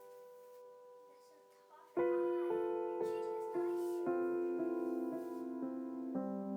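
Soft piano background music: a held chord dies away, then new notes are struck about two seconds in, one roughly every half second, in a slow gentle melody.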